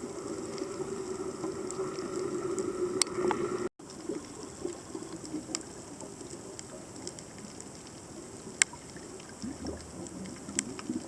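Underwater ambience: a steady low hum and hiss with scattered sharp clicks, cutting out to silence for an instant just before four seconds in.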